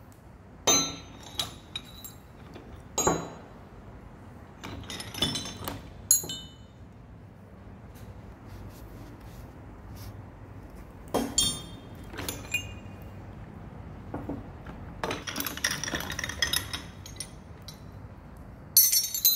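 Steel drills and tooling clinking as they are handled and set down: scattered sharp metallic clinks with brief ringing, a busier jangling run of them near the end.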